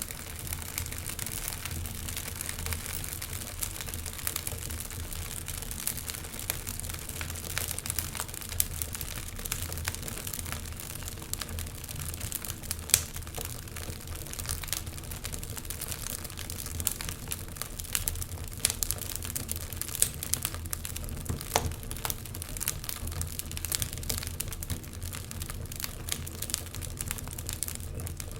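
Wood fire crackling: a steady hiss and low rumble of burning, with many small sharp pops and one louder pop about 13 seconds in.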